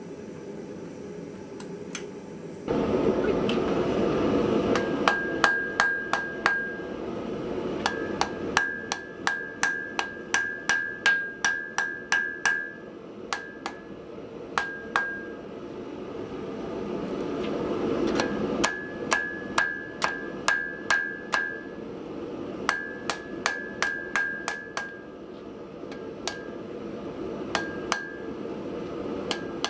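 Hand hammer beating metal on an anvil, two to three blows a second in runs with short pauses, the anvil ringing with each run. A steady rushing noise sets in suddenly about three seconds in and runs under the blows.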